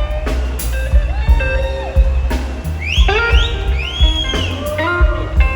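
Live electric blues band playing: electric guitar with notes bending up and down over bass and a kick drum beat of about two thumps a second.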